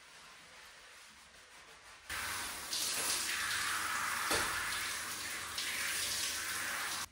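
Running water from a tap, starting suddenly about two seconds in and cutting off abruptly at the end.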